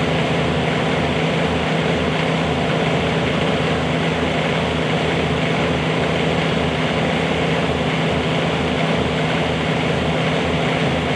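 Bobcat 320 mini excavator's engine running steadily at a constant speed.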